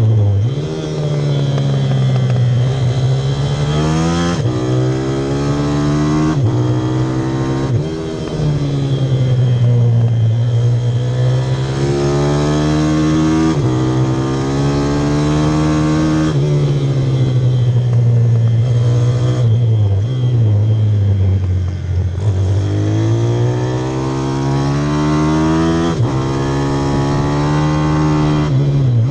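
Pit bike engine being ridden hard. Its revs rise and fall over and over, with sudden drops in pitch at each gear change.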